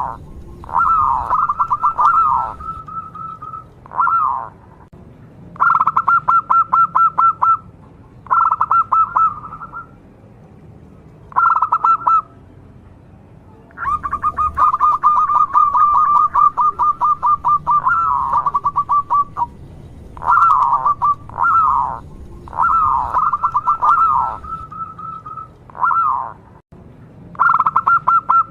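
Local zebra dove (perkutut) singing: repeated cooing phrases of fast, stuttering notes, a second or two long and a second or so apart, with one longer run of about five seconds around halfway through.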